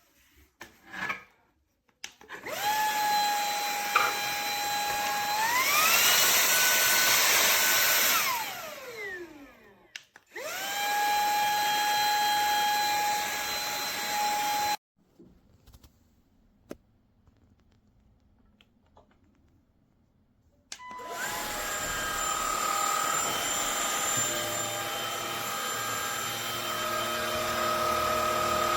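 Cordless stick vacuum's brushless motor whining. It switches on, steps up to a higher pitch as the power setting rises, then winds down with a falling whine. It starts again and cuts off suddenly, and after a few seconds of quiet it runs once more.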